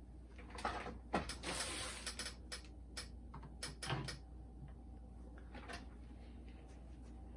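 Plastic clicks, knocks and a short scrape as the front cover of a Pioneer SK-550 boombox is handled and pulled off its case, over about the first four seconds.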